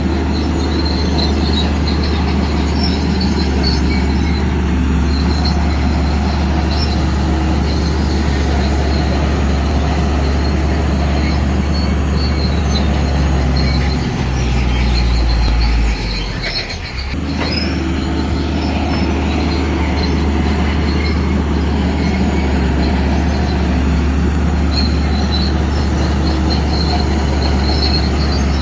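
Shantui DH7C2 bulldozer's diesel engine running under work with a steady low drone, its steel tracks squealing and squeaking. About halfway through the engine note sinks lower for a couple of seconds, dips briefly, then picks back up.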